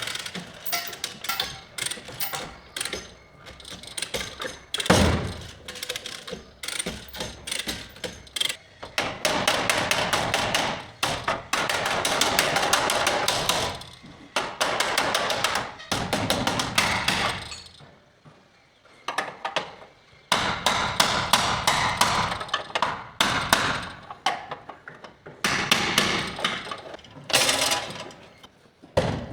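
Hammer blows on car body sheet metal, in runs of quick repeated strikes broken by short pauses.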